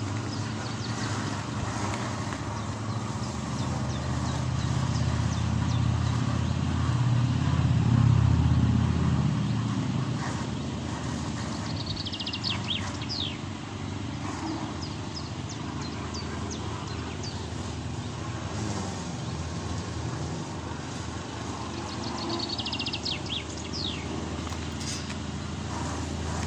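A vehicle passing with a low rumble that swells to its loudest about eight seconds in and then fades, with birds chirping briefly twice.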